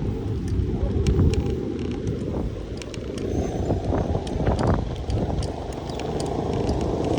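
Wind rumbling on the microphone and road noise from a moving bicycle, with scattered small clicks.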